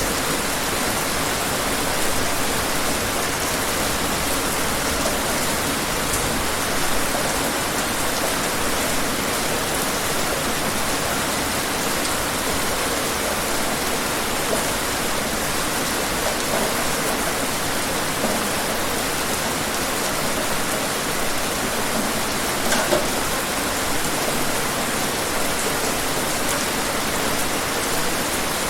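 Steady, dense rainfall, a continuous even hiss with scattered individual drop ticks, including a slightly louder patter about 23 seconds in.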